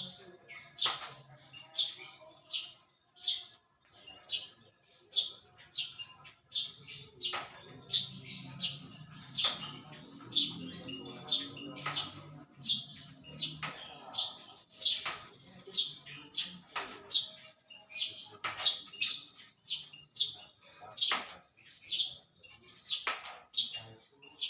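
Small bird chirping over and over, short sharp high chirps about one to two a second.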